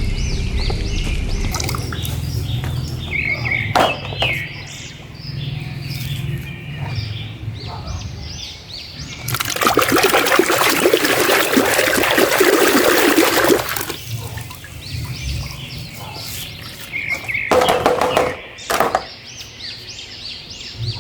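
Small birds chirping repeatedly, with a burst of running water lasting about four seconds midway and a few knocks.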